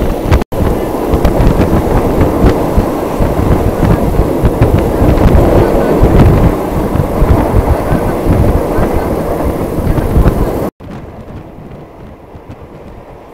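Passenger train running at speed, heard through an open carriage window: a loud, rumbling rush of wheels and rails with constant rattling and clicks. About eleven seconds in it cuts to a much quieter, steady hum of the train inside the carriage.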